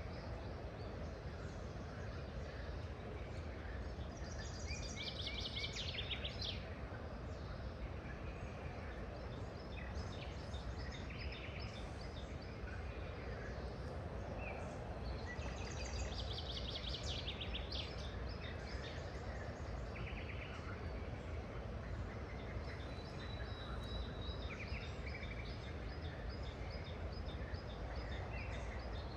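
Songbirds singing over a steady outdoor background noise. A fast trilled song phrase comes twice, about five seconds in and again about sixteen seconds in, with scattered shorter chirps between. Near the end there is a thin, steady high note with quick repeated notes.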